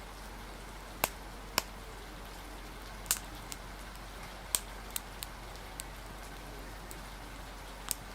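Steady rain hiss under the sharp, irregular pops and crackles of a wood fire, about eight pops scattered across a few seconds.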